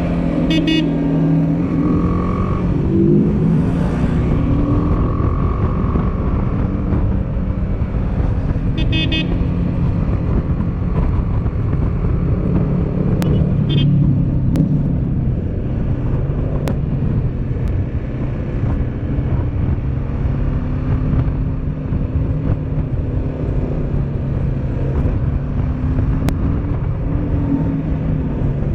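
Motorcycle engine running under way, its pitch rising and falling gently with the throttle, over a constant rush of wind noise.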